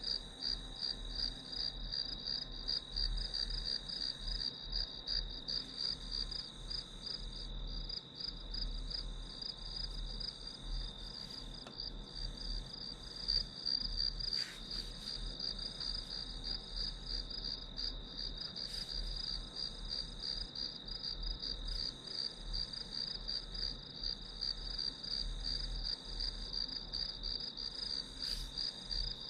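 Crickets chirping steadily in a dense, rapid pulsing trill, with a few faint clicks in the background.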